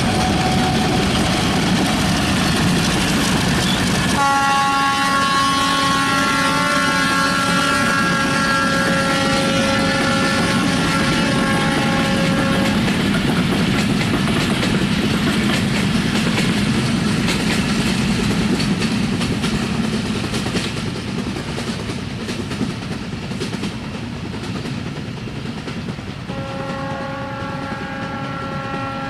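Diesel-hauled passenger train running past with a long, steady blast of the locomotive's horn about four seconds in, lasting about eight seconds. The running noise then dies away with some wheel clatter, and the horn sounds again near the end.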